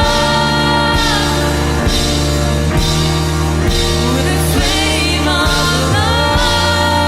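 Worship band playing a contemporary worship song, with long held notes that bend slightly in pitch over sustained bass and a steady beat of about one stroke a second.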